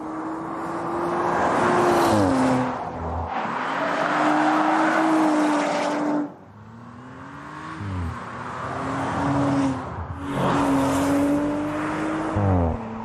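2018 Audi RS4 Avant's 2.9 TFSI twin-turbo V6 pulling hard under acceleration, its engine note held high and then dropping sharply three times, about every four seconds, as it shifts up.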